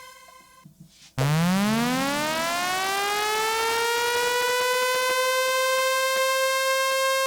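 Synth riser preset from the EZkeys Electronic Pop sound expansion. About a second in it starts low, sweeps up in pitch and levels off into a steady siren-like tone, like an air raid alarm, with faint regular ticks under it later on.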